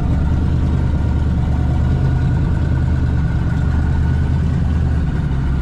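A car engine running steadily at idle, a low even hum with no revving.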